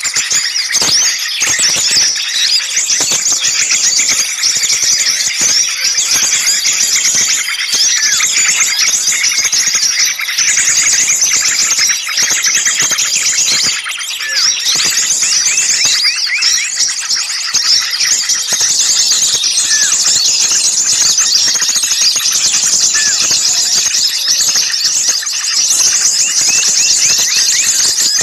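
Noisy, agitated chorus of many small songbirds, dense overlapping high-pitched chirps, twitters and trills without a break: a bird-lure recording of excited small-bird calls.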